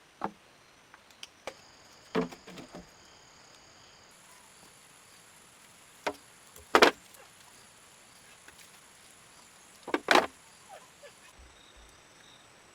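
A few separate sharp knocks, the loudest two about seven and ten seconds in, over a faint steady high-pitched insect drone.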